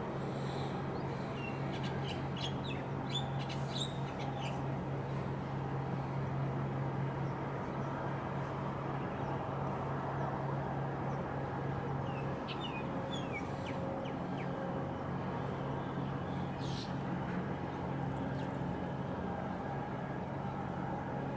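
Small birds chirping in short clusters, near the start, again about halfway through and once more later, over a steady low hum.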